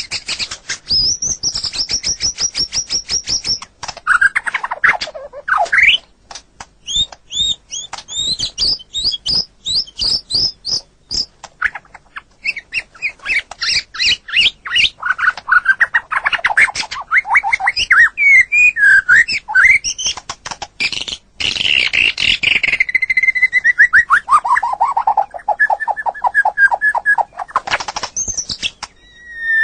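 White-rumped shama (murai batu) singing a long, varied song: fast runs of repeated high notes, quick chirps and trills, and a series of notes falling steadily in pitch near the end.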